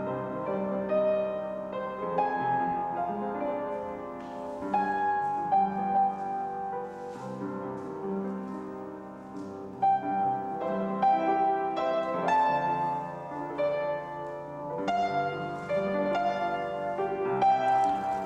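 Solo piano playing a melodic piece, note after note.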